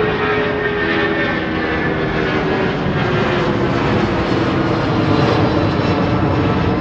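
Departing airliner's engines at takeoff power: a loud, steady noise with whining tones that slowly fall in pitch as the aircraft passes.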